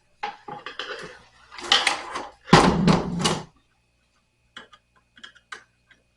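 A nightstand being handled during disassembly: about three seconds of scraping and rubbing with a heavy knock around the middle, then a string of light clicks.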